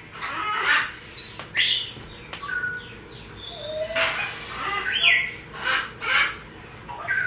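Parrots making short chirps and squawks, with a few brief whistled notes, one sliding down in pitch about five seconds in.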